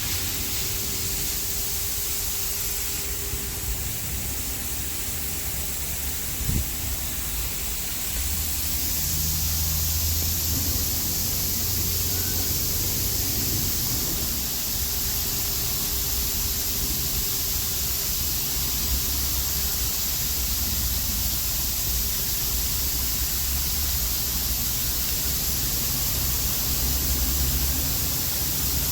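Automatic car wash spraying water onto the car, heard from inside the cabin: a steady hiss of the jets over a low machine hum, growing louder about eight seconds in.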